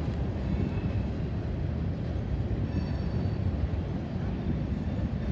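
Double-stack container well cars of a freight train rolling across a steel railway bridge: a steady low rumble of wheels on rail and bridge deck, with a few faint high squeals about three seconds in.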